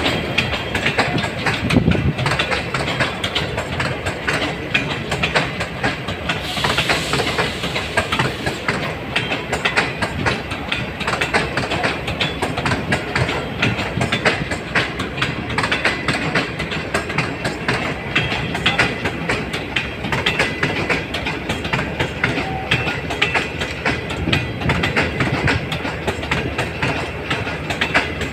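Pakistan Railways Green Line passenger train passing close by: a steady clickety-clack of coach wheels over the rail joints, above a continuous rumble. The diesel locomotive's rumble swells about two seconds in, and a brief hiss comes about seven seconds in.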